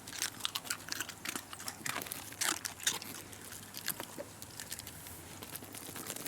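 Shiba Inu crunching and chewing a hard treat: a quick run of crisp crunches in the first three seconds, thinning out after that.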